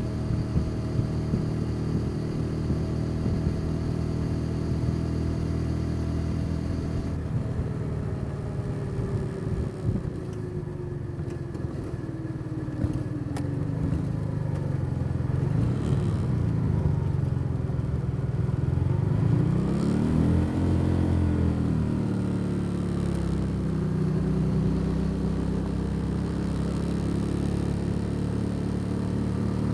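Motorcycle engine on the move: it runs steadily at first, then its pitch falls as it slows down. About two-thirds of the way through it revs up again and then settles back to a steady cruise.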